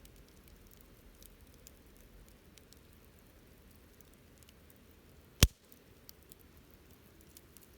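Wood fire crackling faintly with scattered small ticks, and one sharp, loud pop about five seconds in.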